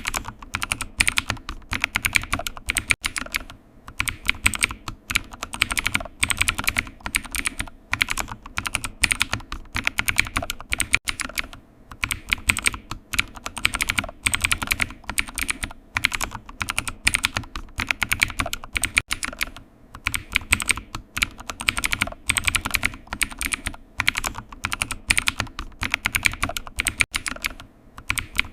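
Computer keyboard typing: quick, irregular runs of key clicks with short pauses between bursts.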